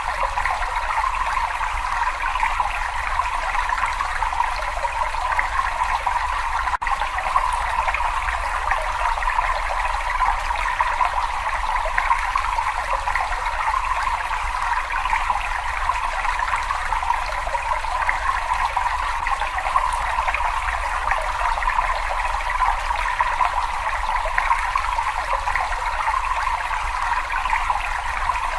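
Running water, a steady trickling, splashing flow, with a split-second gap about seven seconds in.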